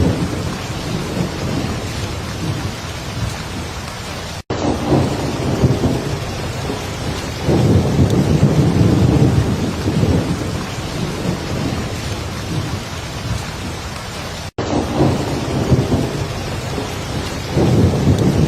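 Heavy rain falling steadily, with low rolls of thunder that swell about seven seconds in and again near the end. The sound cuts out for an instant twice, about ten seconds apart.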